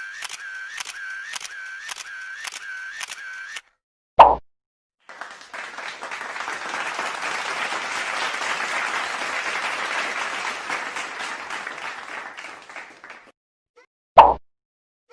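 A string of comedy sound effects: a quick run of evenly spaced clicks, about three a second, then a short loud plop, then several seconds of applause, then another short loud plop.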